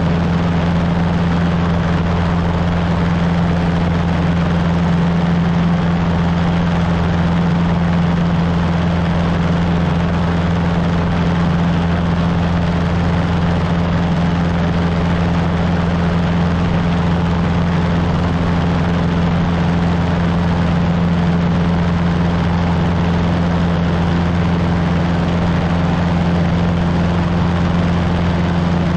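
Cessna 150's four-cylinder Continental O-200 engine and two-blade propeller running steadily at power, a constant drone with a deep hum that does not change.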